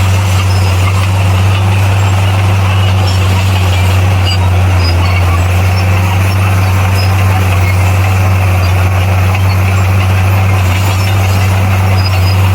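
Heavy diesel engine of an earthmoving machine running steadily with a deep, even drone.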